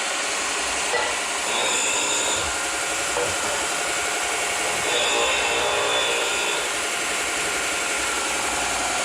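A power tool running steadily on metal exhaust pipe being prepped, a continuous noise with a high whine that comes and goes.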